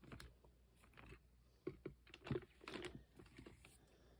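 Faint, scattered clicks and crinkles of a plastic bag being handled, with a few sharper ones about halfway through.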